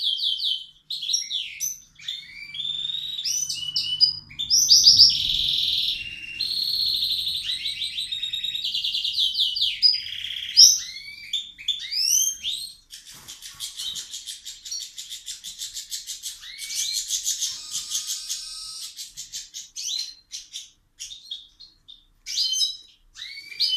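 Caged songbird singing loudly in a long run of rapid chirps and trills, with a fast buzzy rattling trill lasting several seconds in the middle.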